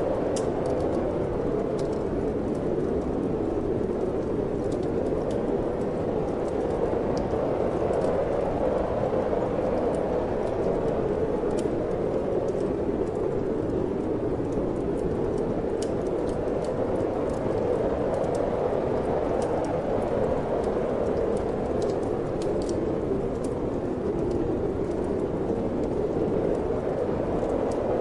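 Steady wind blowing, with small scattered crackles and pops from a wood fire burning in a fireplace.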